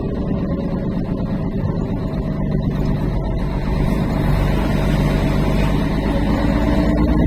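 Truck engine running steadily with road noise while driving, growing a little louder about halfway through.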